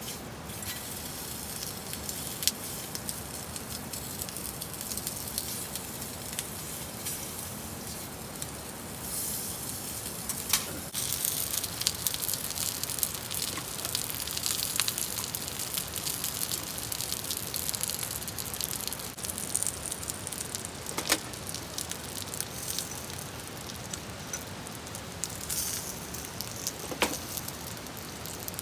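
Wood fire crackling with a steady hiss and a few sharp pops.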